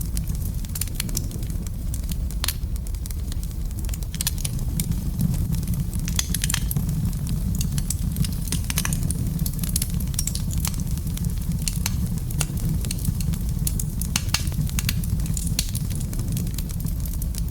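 Wood fire burning in a fireplace: a steady low rumble of flames with irregular crackles and pops throughout.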